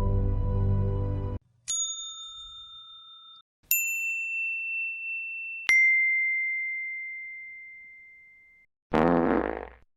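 Three single bell-like dings, each of a different pitch, about two seconds apart; each rings out and fades, the last one ringing longest. Just before the first ding, a held musical chord cuts off, and near the end a short buzzy tone sounds.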